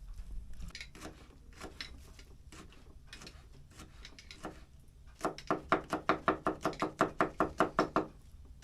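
A few scattered light knocks, then, from about five seconds in, a fast, even run of sharp knocks with a short ring, about six a second, for some three seconds.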